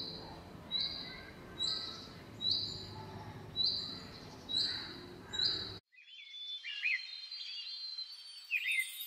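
Birds calling: a short high note repeated about once a second, seven times, then after a sudden cut, lively twittering song with quick up-and-down glides.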